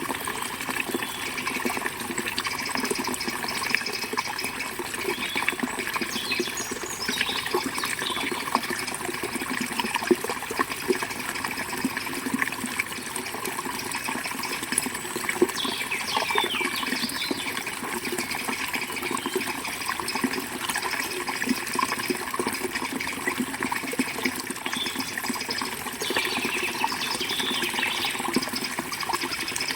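River water flowing steadily, with birds chirping in short high calls now and then.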